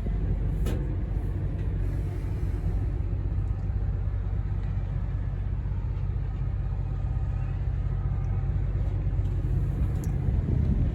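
Diesel engine of a 2005 Western Star 4900 heavy truck running at a steady idle, a low, even rumble.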